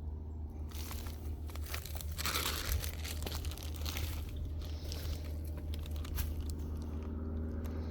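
Dry leaf litter and bamboo debris crunching and crackling, a dense run of crackles for a few seconds in the middle, over a steady low hum.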